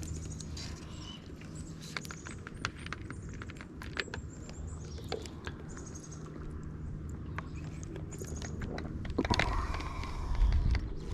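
Kayak paddling: water splashing and dripping off the paddle with scattered light knocks against the hull, louder near the end.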